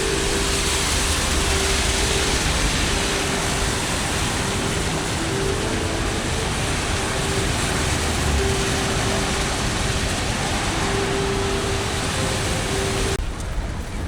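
Dense, steady hiss of heavy typhoon rain and traffic on wet city streets, with a steady low tone that keeps breaking off and returning. Near the end the hiss suddenly thins.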